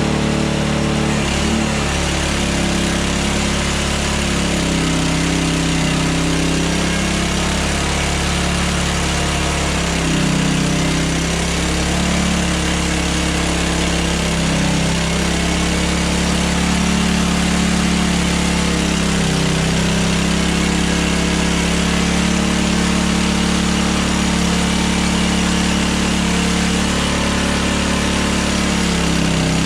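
Engine of a Hudson Hunter band sawmill running steadily, its pitch sagging briefly a few times.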